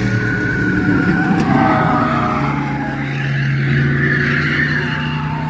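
Bomber-class stock cars racing around the oval, several engines running at speed, with a drawn-out high whine above them.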